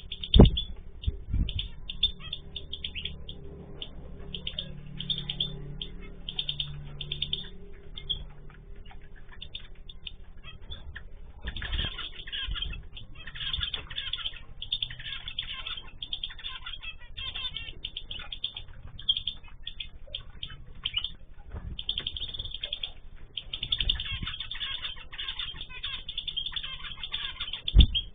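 Aviary of pet cage birds (zebra finches, canaries, goldfinches and cockatiels) chirping busily without pause, with wings fluttering. A few sharp knocks stand out, the loudest just after the start and near the end.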